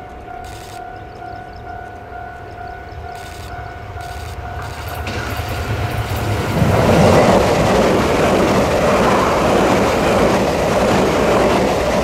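A level-crossing warning signal sounds a steady tone. Then a Taiwan Railways Tze-Chiang express train approaches and passes close by from about six seconds in, with a loud rush of wheels on rails.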